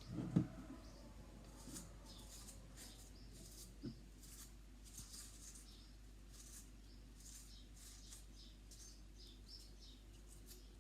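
Faint, irregular sticky scraping and squelching of a spatula spreading peanut butter over a cardboard toilet-roll tube, with a sharper knock about half a second in.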